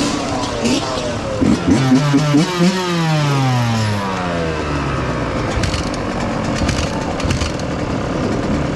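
Dirt bike engine blipped with several quick throttle revs, then the revs fall away steadily over a couple of seconds, with the engine and rushing noise running on after.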